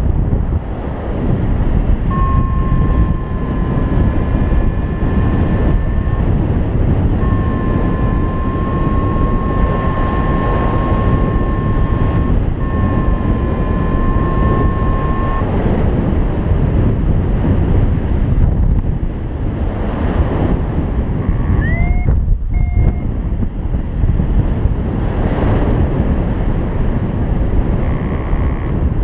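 Strong wind buffeting the microphone in flight. A steady electronic tone sounds three times in the first half, each held for a few seconds, and there is a short rising chirp about two-thirds of the way in.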